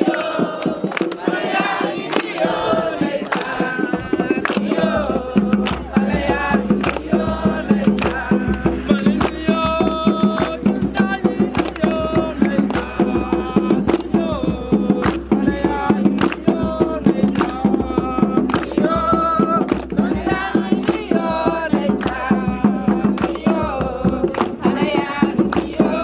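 A group of voices singing a song together to a steady percussive beat; a low bass comes in about five seconds in.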